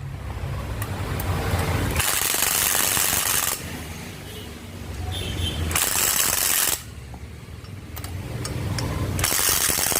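Impact wrench tightening bolts on a Royal Enfield Bullet, running in several hard-edged bursts of one to two seconds each, with a low hum in the pauses between them.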